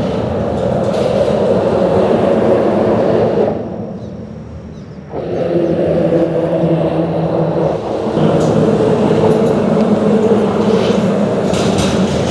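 Loud, steady rumble of vehicles crossing a bridge, with droning tones in it. The noise falls away for about a second and a half near four seconds in, then picks up again.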